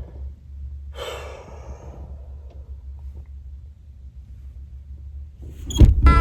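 A man's long sigh about a second in, over a low steady rumble. A loud thump just before the end.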